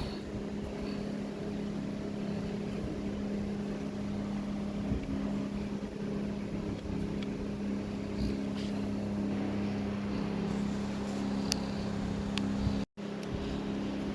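A motor running steadily with a constant, even hum, joined by a few light clicks near the end; the sound cuts out for an instant about 13 seconds in.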